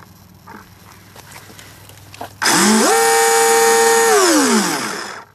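Brushless motor of an RC boat, a Neu 1515 1Y, given a short throttle burst: a loud whine that rises quickly about two and a half seconds in, holds steady for about a second and a half, then winds down and stops near the end.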